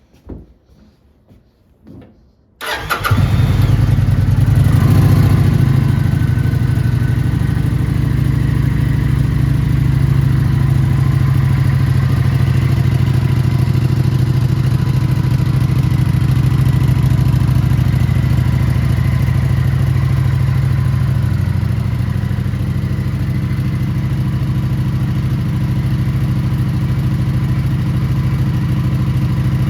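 Kawasaki Vulcan 900 Classic's V-twin engine started after a few faint clicks, catching about two and a half seconds in, briefly rising in speed and then settling into a steady idle.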